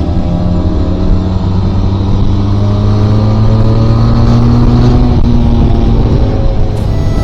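Motorcycle engine running under way, its pitch rising slowly as it gathers speed over several seconds, then easing off.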